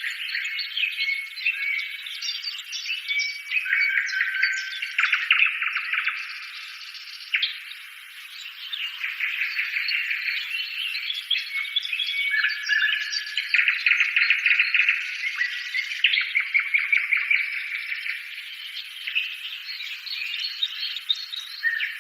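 Birds chirping and trilling continuously, with many quick overlapping calls and no low sounds underneath.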